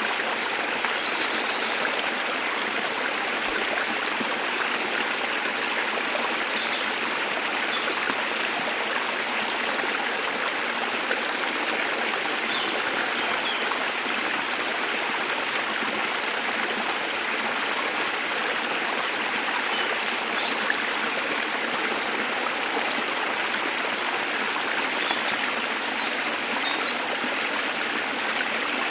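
Waterfall and stream water rushing steadily, with faint short bird chirps here and there above it.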